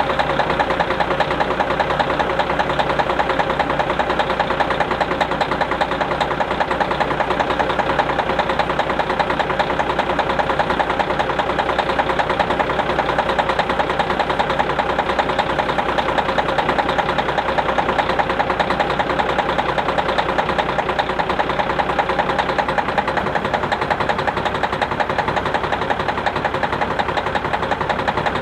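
Semi truck's diesel engine idling steadily, still cold just after a cold start at about 15 below zero.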